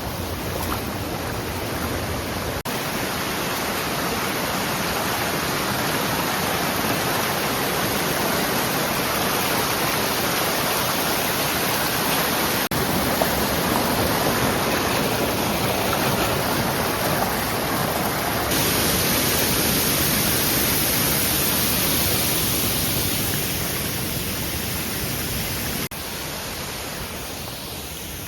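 Rushing mountain water, a steady noise of stream or cascade flow. It jumps abruptly in level a few times, brighter and louder around two-thirds of the way through, then lower near the end.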